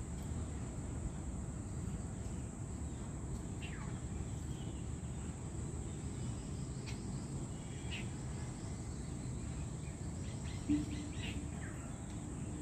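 Outdoor ambience: a steady high insect drone over a low background rumble, with a few faint short bird chirps scattered through. A brief knock comes near the end, followed by a low steady hum.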